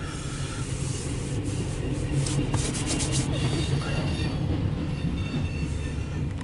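A CSX intermodal freight train rolling past, heard from inside a car: a steady low rumble of wheels on rail, with a run of rapid clattering about two to three seconds in and a faint high wheel squeal.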